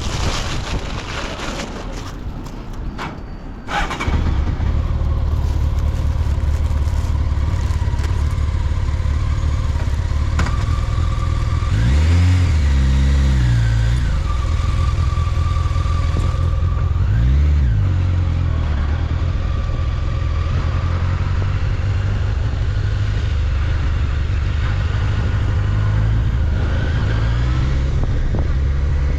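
Honda CBR1100XX Blackbird's inline-four engine starting up about four seconds in, then running steadily, with two brief blips of the throttle that rise and fall in pitch around the middle.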